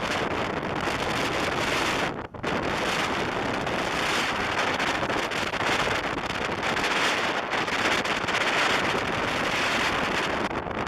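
Wind rushing over the microphone of a motorcycle moving at highway speed, mixed with the road and engine noise of the bike: a steady, loud rush that briefly drops out about two seconds in.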